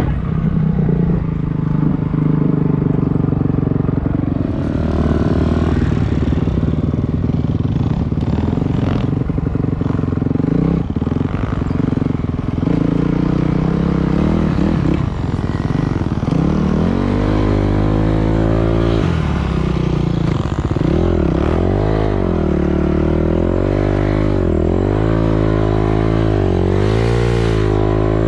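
Dirt bike engine running under throttle, steady at first; from a little past halfway the engine pitch rises and falls over and over as the throttle is worked.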